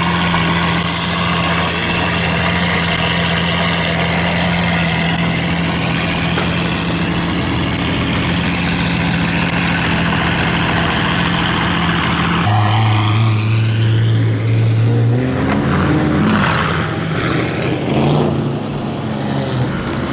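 Car engine running steadily, its hum dropping suddenly to a lower pitch about twelve seconds in, then rising and falling in short revs near the end.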